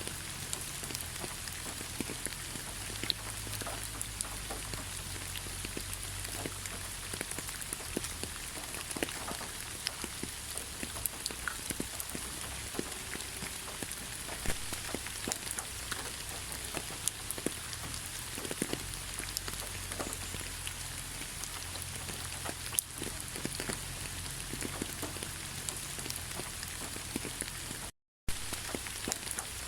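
Steady rain falling in a pine forest: an even hiss with many distinct, close drop strikes scattered through it. The sound cuts out completely for a moment near the end.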